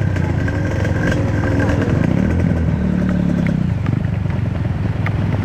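Trail motorcycle engine running, its revs rising and falling a couple of times.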